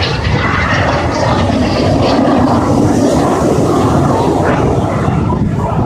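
Fixed-wing aircraft engine noise from a plane in flight, loud and steady.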